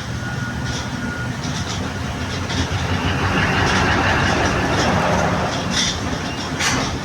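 Sri Lanka Railways Class S11 diesel multiple unit running on the rails: a steady low rumble with scattered sharp clicks and a louder rushing swell in the middle.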